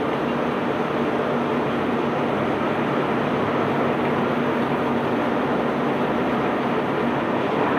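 Self-unloading barge's machinery running with a steady rumble and a faint low hum while it discharges its cargo.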